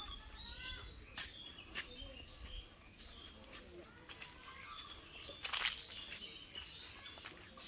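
Several birds chirping and calling, short rising and falling notes overlapping throughout, with a few sharp clicks and a brief louder noisy burst about five and a half seconds in.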